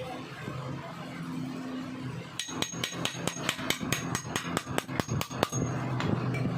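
Rapid hammer taps on metal, about six a second, for some three seconds starting about two seconds in, likely knocking loose a plate on a Suzuki Mehran engine block. A steady low hum runs underneath.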